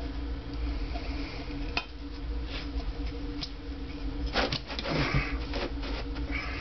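Small metal engine parts and tools clinking and knocking as they are handled on a workbench, with a cluster of sharp clicks about four and a half seconds in, over a steady low hum.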